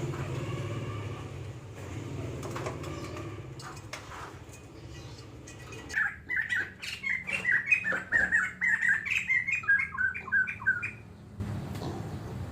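White-crested laughingthrush giving a rapid run of loud, chattering notes for about five seconds, starting about halfway in and breaking off abruptly. Before it there is only a low background rumble.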